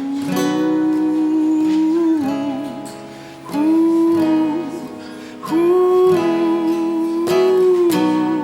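A singer holding long wordless notes, three sustained tones each ending with a little vibrato, over strummed acoustic guitar in a slow country-style love song.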